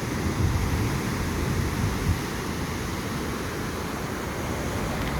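Steady wash of ocean surf with wind, and a low rumble of wind on the microphone.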